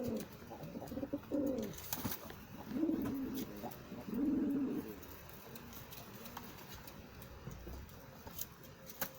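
Domestic pigeons cooing, with a few rising-and-falling coos in the first half and scattered light clicks and taps; the second half is quieter.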